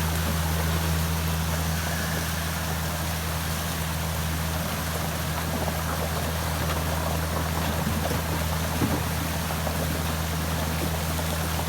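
An engine running steadily with a constant low hum, over the rushing of a flowing creek; a small knock about nine seconds in.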